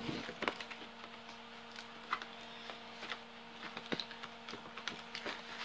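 Faint, scattered clicks and rustles of a mailed package being handled while someone works at opening it, over a steady low electrical hum.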